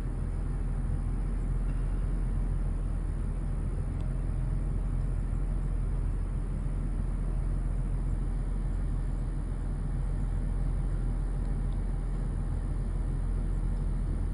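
Falcon 9 rocket launch heard from far off: a steady low rumble.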